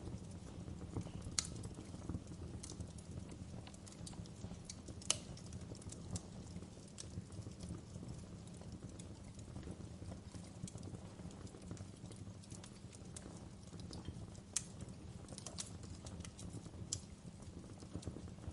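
Wood fire crackling in a fireplace: irregular sharp pops and snaps of burning logs, a few louder ones about a second and a half and five seconds in, over a steady low rumble of the flames.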